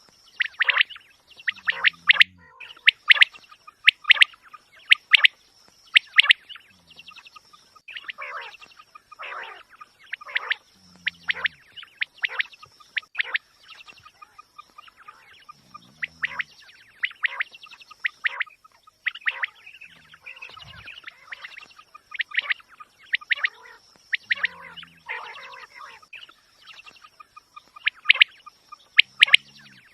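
Quail calling over and over in quick bursts of sharp chirps, a fresh burst every second or two. Short low notes come between some bursts, over a faint steady high tone.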